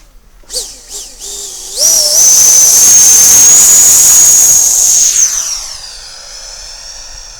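Electric ducted-fan model jet: a high-pitched fan whine with rushing air that rises in a few short spurts, then holds loud and steady for about three seconds before falling in pitch and fading.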